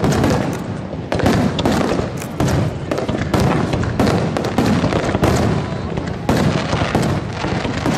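Fireworks display in a dense barrage: many aerial shells and low mines bursting in quick succession, their bangs overlapping several times a second.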